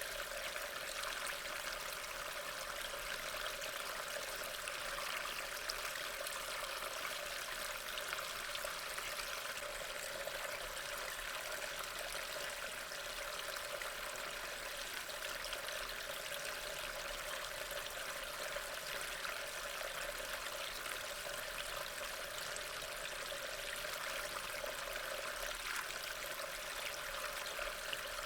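Steady rain ambience: an even, continuous hiss of falling rain with no breaks or distinct drops standing out.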